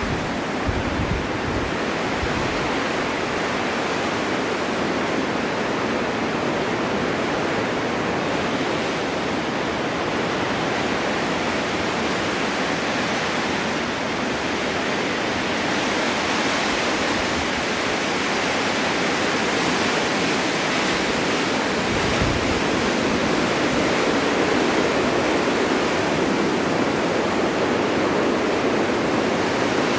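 Winter storm wind blowing steadily, an even rushing that swells slightly past the middle, with a few brief low rumbles of gusts.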